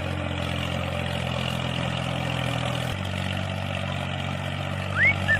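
Tractor engine idling steadily with a low, even hum that shifts slightly about three seconds in. Near the end there is a brief high rising squeak.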